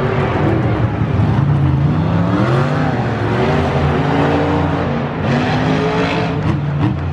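Monster truck engines revving hard during a race, their pitch repeatedly climbing and falling.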